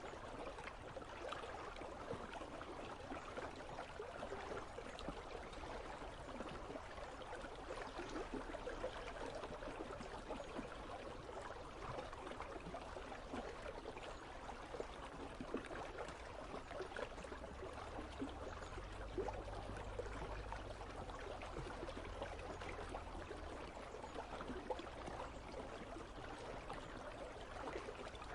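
River water flowing with a steady, fine babble and trickle. A faint low rumble comes in for several seconds past the middle.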